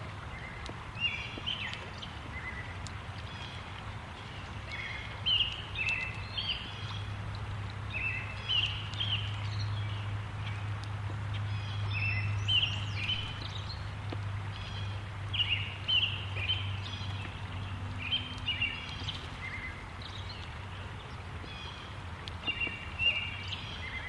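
Birdsong: short, high chirping phrases repeated every second or two, over a steady low hum and constant background noise.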